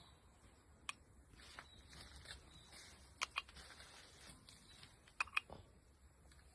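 A few sharp, short clicks or taps: one about a second in, then two quick pairs a little over three seconds and just after five seconds in, over a faint low hum.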